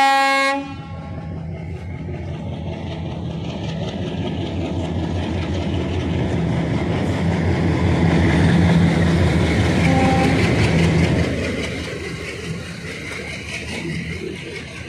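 Diesel locomotive horn blasts once, briefly, then the engine rumble of a set of diesel locomotives builds as they pass close at speed, with a second short horn toot about ten seconds in. After that the passenger coaches roll by with a lower, softer clatter.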